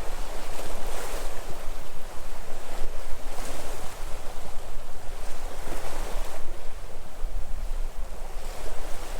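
Sea waves breaking and washing on the shore, with surges every second or two over a steady wash. Wind rumbles on the microphone underneath.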